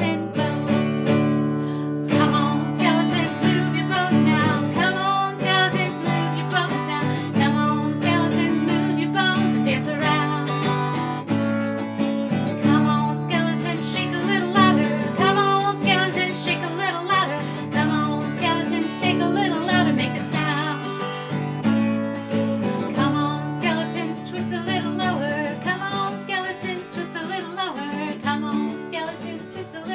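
Music played on a strummed acoustic guitar, a lively children's song accompaniment.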